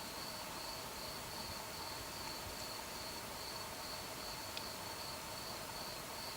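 Crickets chirping steadily on a summer night, an even run of a few chirps a second, with a fainter, lower, steady trill beneath. A single small click a little past halfway.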